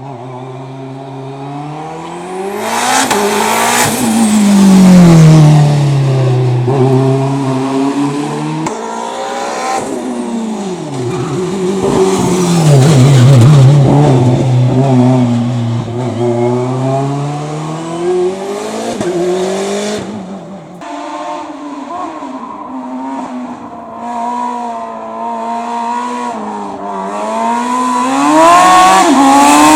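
Race car engines on a slalom course, revving up hard and dropping back over and over as the cars accelerate between chicanes and brake for the next one. Loudest at close pass-bys about five seconds in, around the middle, and again at the end.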